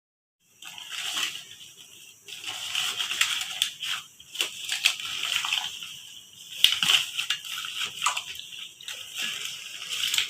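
Water splashing and sloshing in uneven surges, with small knocks and clicks among it, starting about half a second in.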